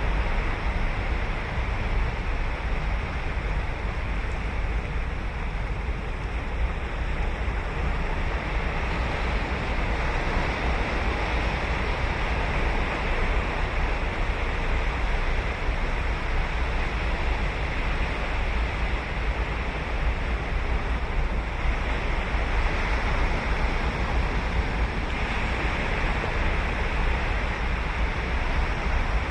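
Ocean surf breaking and washing on a sandy beach: a steady wash of wave noise that swells and eases gently, with a low rumble that may partly be wind on the microphone.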